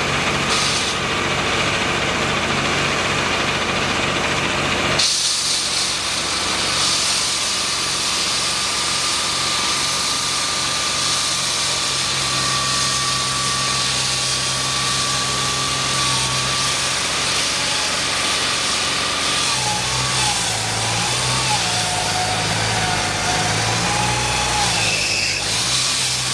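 An engine running steadily; over the last few seconds its pitch rises and falls.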